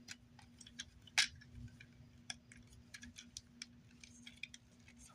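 Faint, irregular plastic clicks and taps of a Transformers action figure being handled and transformed, its parts clicking as they are moved and set in place, with one sharper click about a second in.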